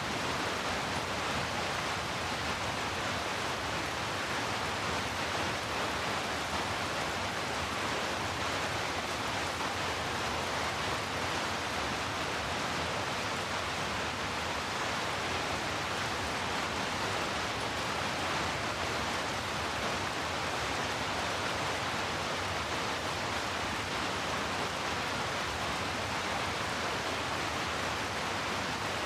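Steady rain falling, an even, unbroken hiss with no drops or thunder standing out.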